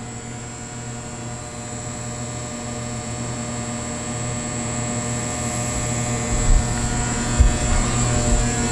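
Feed conveyor drive of a Timesavers wide belt sander running steadily at slow feed speed, a humming drone with a thin high whine, growing gradually louder. A few low bumps come in the last few seconds.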